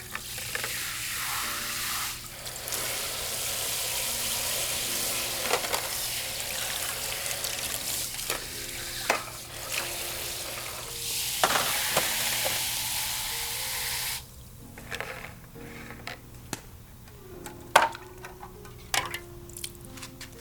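Food sizzling on a grill net, a steady hiss with scattered pops that stops suddenly about fourteen seconds in, leaving only occasional clicks. Background music plays underneath.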